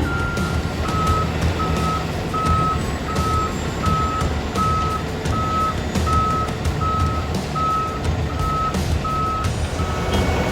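Dump truck's reversing alarm beeping steadily, about one and a half beeps a second, over the low running of the truck's engine.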